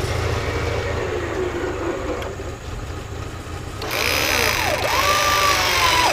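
An off-road 4x4's engine idling with a steady low rumble. About four seconds in, a whining tone joins it and swoops down and up several times.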